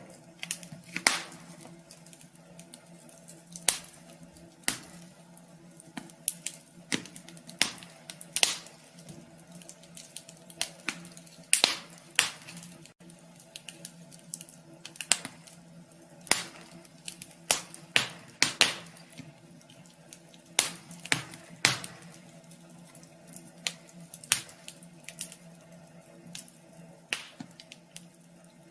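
Wood fire crackling in a wood stove: irregular sharp pops and snaps, some much louder than others, over a faint steady hum.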